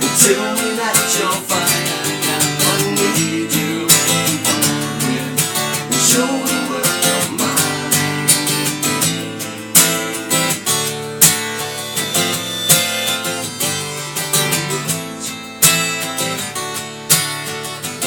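Acoustic guitar strumming chords in a steady rhythm: an instrumental passage of a country-style song, with a wavering melody line over it in the first half.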